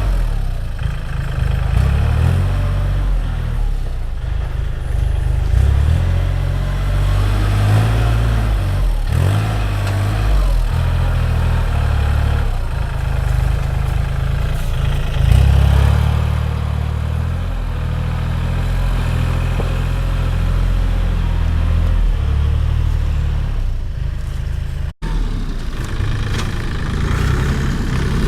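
Small tractor's engine running steadily while working, its pitch and level rising and falling with the load. The sound drops out for an instant near the end.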